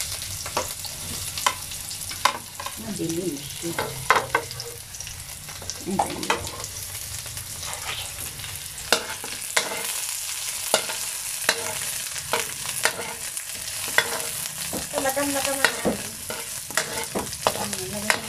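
Chopped onion and garlic sizzling in hot oil in a metal wok, with a steady hiss. A metal ladle clinks and scrapes against the pan many times as it stirs.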